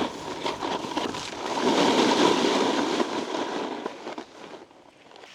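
Snowboard edge scraping and chattering across icy, hard-packed snow, loudest through the middle, then fading away near the end.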